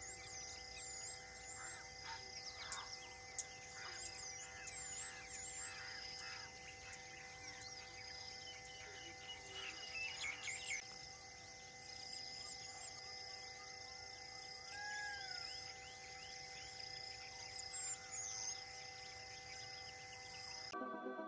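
Wild forest ambience: many birds chirping and calling over a few steady held tones. The sound cuts off near the end.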